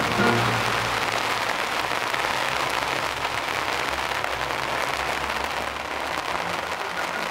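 Rain falling steadily on the plastic skin of an inflatable bubble tent, a dense, even hiss of many small drop ticks.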